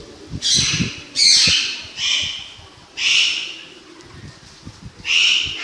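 Harsh, noisy bird calls, five in all, each about half a second long, coming roughly once a second with a longer pause before the last.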